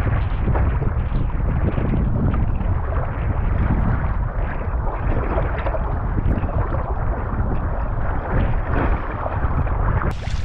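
Strong wind buffeting a camera microphone on a kayak in rough water after a hurricane, a loud, constant, rumbling roar. Just before the end the sound changes abruptly to a thinner, hissier noise.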